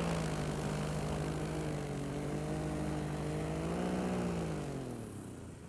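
Paramotor engine running steadily, rising briefly in pitch about four seconds in, then throttled down and fading near the end as the pilot sets up to land on a dune crest.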